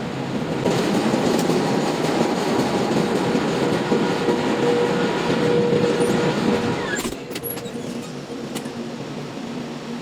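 Ship's engine-room machinery running: a loud, steady roar with a high steady tone in it. About seven seconds in the noise drops sharply, with a few clicks, leaving a quieter hum.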